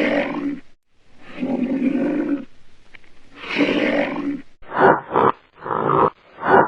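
A big cat roaring: three long roars, then a run of short grunts, about three a second.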